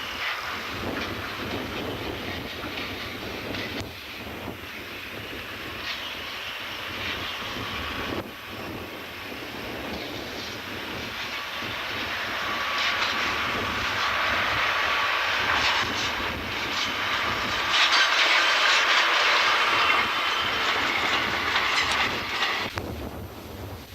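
Diesel train passing on jointed track, its wheels clicking over the rail joints, growing louder until it is loudest near the end, then cutting off sharply. Strong wind runs under it throughout.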